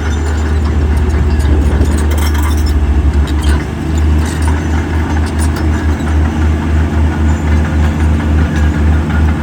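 Heavy diesel engine of earthmoving machinery running with a deep low rumble. The rumble dips briefly about three and a half seconds in, then throbs in a regular pulse two or three times a second.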